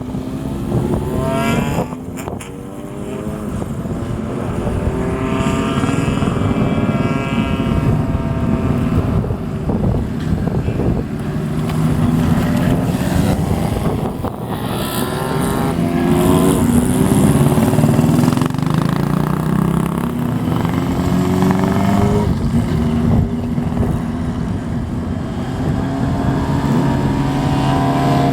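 Classic Japanese motorcycles, mostly Honda CBXs, riding off one after another with their exhausts revving. Engine pitches keep rising as each bike accelerates, with several bikes overlapping.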